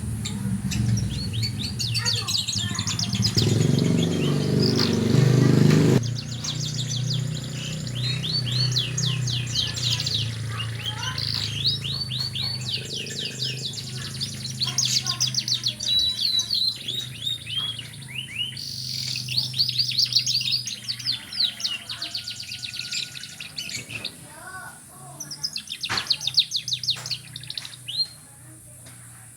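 Domestic canary singing a long, varied song of rapid trills and warbles, with a low rumble under it for the first six seconds or so.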